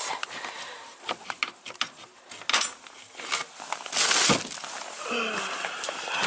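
Clicks, knocks and rustling as something is opened by hand, with a louder rush of noise about four seconds in.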